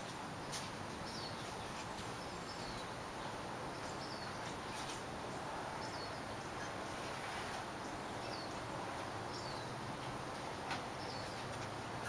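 A bird chirping repeatedly, short falling chirps about once a second, over a steady outdoor background hiss, with a few faint clicks.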